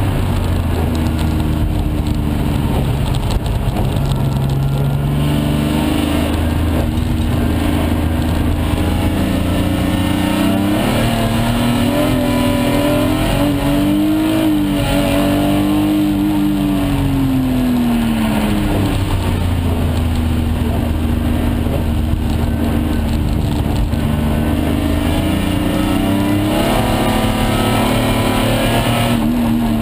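S50B30 3.0-litre straight-six in an E46 BMW 328, heard from inside the cabin while driven hard on track. The engine note rises and falls repeatedly as it accelerates, shifts and lifts, with a long climb and drop in pitch about halfway through.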